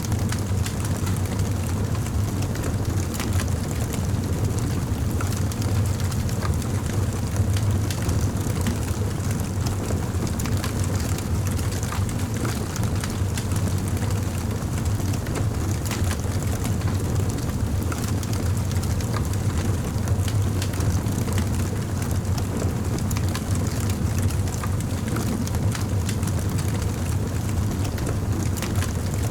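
Campfire burning: a steady low rumble with small, scattered crackles.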